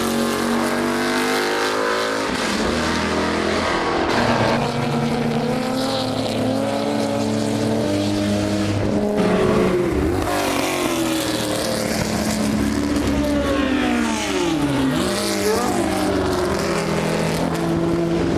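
Several historic racing car engines running hard at once, their notes rising and falling as they accelerate, change gear and pass, with one pitch dipping and climbing again about fifteen seconds in.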